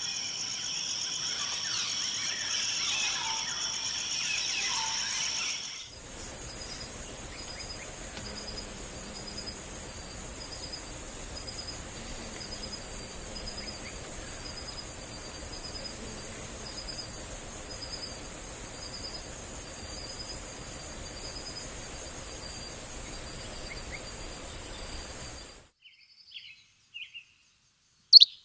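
Forest insect chorus, a steady high buzz, with bird chirps mixed in for the first few seconds. About six seconds in it changes to another steady high buzz with a pulsing call repeating about once a second. Near the end the buzz stops and a few sharp bird chirps stand out, one of them loud.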